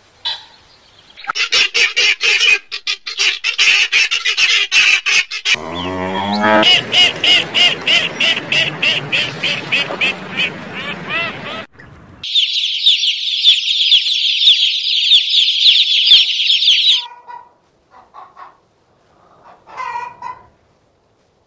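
Birds calling in a string of separate clips: rapid repeated calls, then denser honking and clucking from a group of fowl, then a long spell of dense high chirping from many birds, and a few short faint calls near the end.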